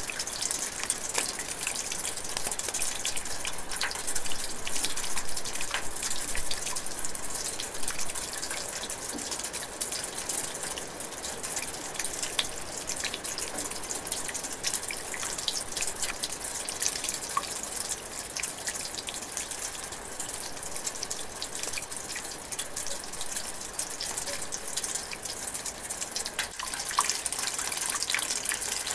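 Rain drizzling steadily, a continuous high hiss with many small drops pattering on leaves.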